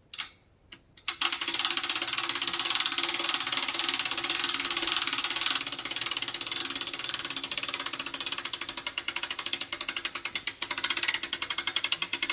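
Winch pulling in cable under load: a fast, even clicking rattle over a low steady hum, starting about a second in and running on without a break.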